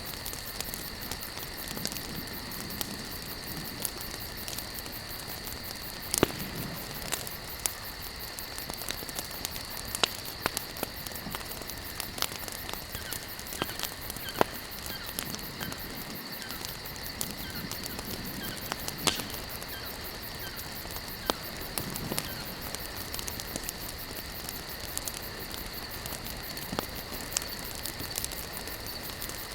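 Campfire burning: burning wood crackling with frequent sharp, irregular pops over a steady hiss, with a faint steady high tone underneath.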